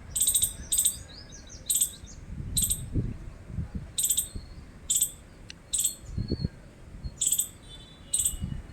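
Squirrel chirping: about ten short, sharp, high-pitched chip calls at uneven intervals, with a few faint low thuds underneath.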